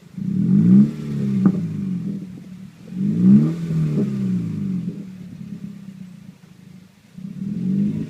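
2013 Honda CR-Z's 1.5-litre four-cylinder running through a straight-pipe axle-back with the muffler removed, revved three times, each rev rising and falling back toward idle.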